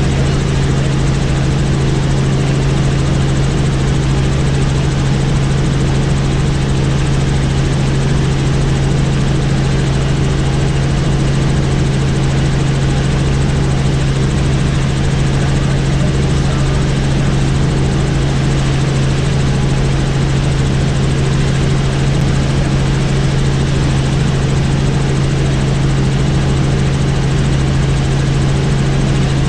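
Helicopter in flight: a steady, loud drone of engine and rotor, with a strong low hum that holds constant.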